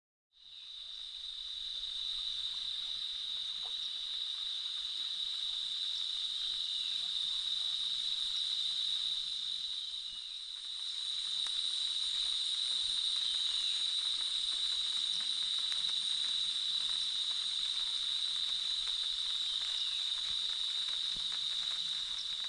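Night-time insect chorus: a steady, high-pitched drone that fades in at the start and dips briefly about halfway through. A few faint, short falling chirps sound over it.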